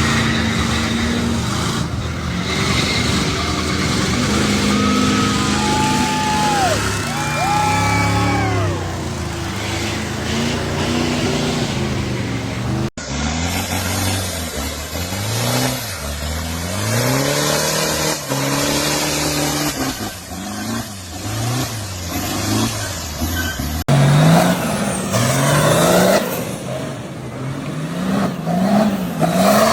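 Off-road 4x4 truck engines revving hard, the pitch climbing and dropping again and again with the throttle. The sound breaks off abruptly twice and picks up with another engine revving.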